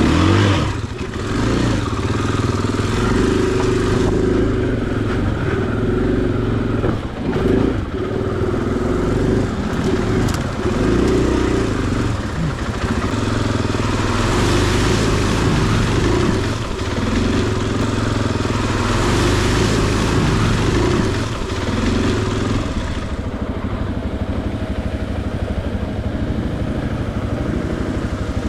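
500cc-class single-cylinder four-stroke enduro dirt bike engine under riding load over rough ground, the throttle rising and falling again and again.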